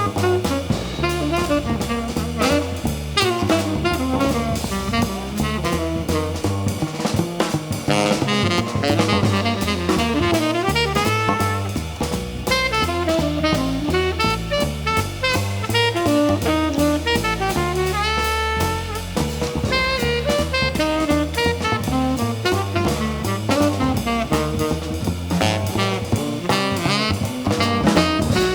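Jazz band playing live: a running melody line over continual drum and cymbal strokes and changing bass notes.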